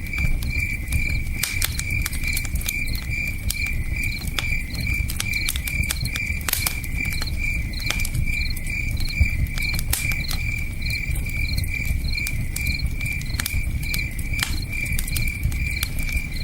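Campfire crackling with scattered sharp pops, over crickets chirping steadily about three times a second and the low rush of a river.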